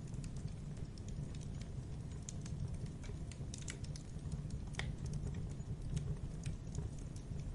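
Campfire crackling: a steady low rumble of burning wood with irregular sharp pops and snaps, one louder pop a little past halfway.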